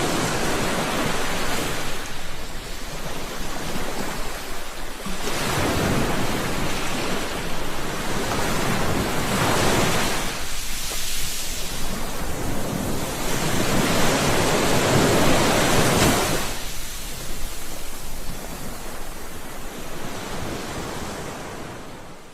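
Ocean surf: waves breaking and washing up the shore in successive swells a few seconds apart, with the biggest surge about two-thirds of the way through. The sound fades out near the end.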